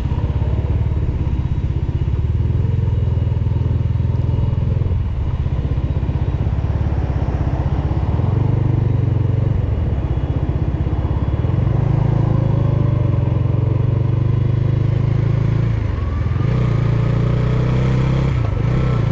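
Bajaj Dominar 400's single-cylinder engine running while riding in traffic, its engine speed rising and dropping several times.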